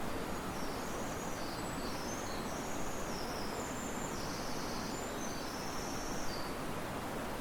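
Steady rushing of a river with wind moving through riverside trees. Over it, a high-pitched chirring call of some small creature comes and goes in short broken stretches, stopping about a second before the end.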